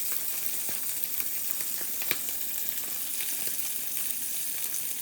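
Meat frying in a pan: a steady sizzling hiss with scattered crackles and pops.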